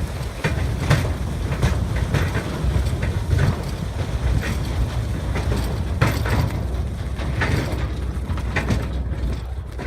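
Sheep crunching and chewing cantaloupes: irregular sharp crunches, several a second, over a steady low rumble of wind on the microphone.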